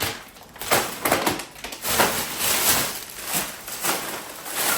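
Plastic bags and packaging rustling and crinkling in a run of irregular bursts as groceries are unpacked and handled.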